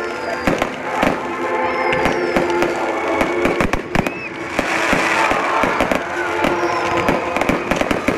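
Fireworks going off: a rapid, irregular run of sharp bangs and pops, with a dense burst of crackling about halfway through, over music.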